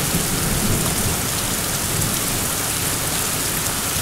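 Heavy rain pouring steadily onto a yard and a porch roof during a severe thunderstorm, with a low rumble of thunder underneath in the first half.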